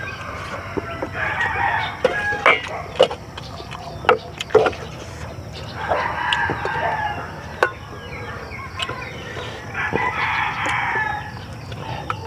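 A rooster crowing three times, each crow lasting a second or more, with sharp clicks and taps in between.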